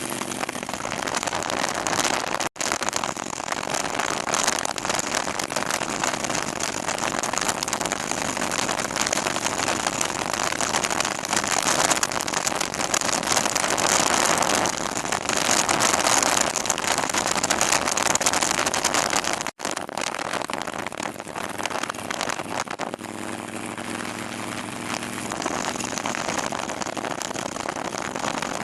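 Motorcycle under way, with heavy wind rush over the microphone covering most of it and the engine's drone showing through faintly near the end. The sound drops out for an instant twice.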